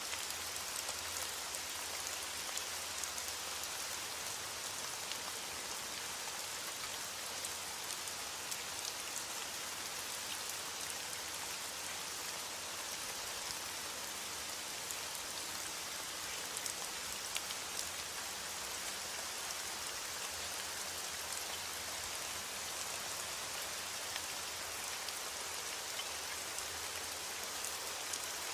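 Heavy rain falling steadily against a window, an even hiss with scattered small sharp ticks of drops.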